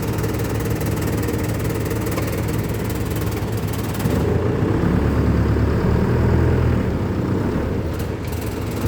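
An engine running steadily with a low hum, growing louder about four seconds in and easing back near the end.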